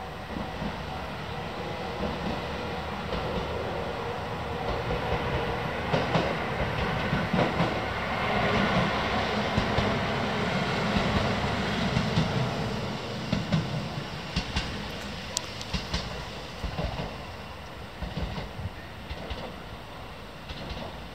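Mizushima Rinkai Railway MRT300 diesel railcar running past, its wheels clacking over rail joints. The sound swells to its loudest in the middle, with sharp clicks, and then fades.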